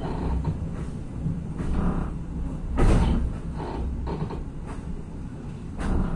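Interior sound of a Regionova diesel railcar under way: a steady low rumble of the running gear and engine, with a couple of louder clunks, about three seconds in and again near the end.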